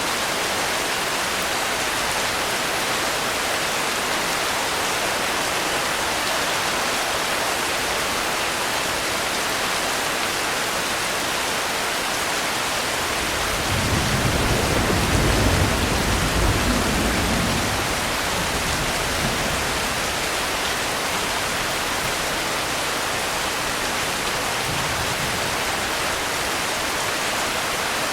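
Steady rain falling, a continuous even hiss. About halfway through, a low rumble swells and fades over about four seconds.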